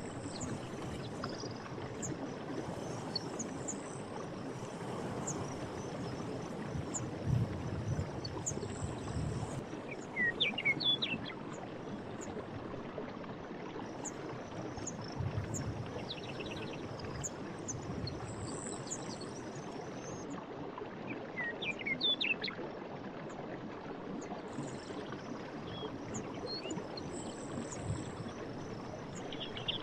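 Steady rush of flowing stream water, with birds chirping and trilling here and there over it.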